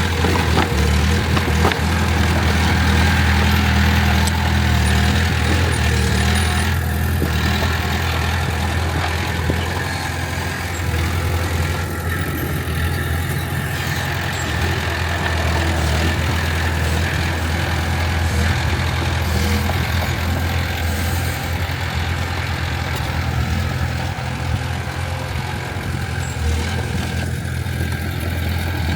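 Heavy diesel engine of earthmoving machinery running steadily with a deep, continuous hum.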